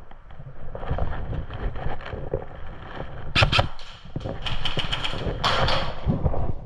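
Airsoft gun firing two short runs of rapid sharp cracks about halfway through, over footsteps and handling noise from a player moving in the field, with rustling near the end.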